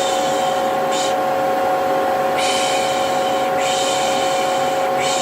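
Steady vacuum cleaner motor hum, with a person shushing 'shh' over it in repeated breaths of about a second each, the soothing shush used to settle a baby.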